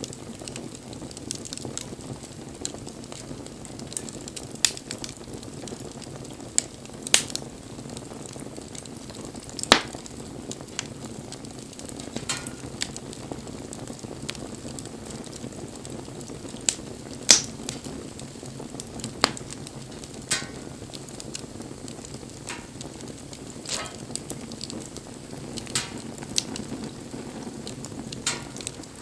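Wood campfire burning: a steady low rustle of flames with sharp crackles and pops scattered irregularly through it, the loudest pops about ten and seventeen seconds in.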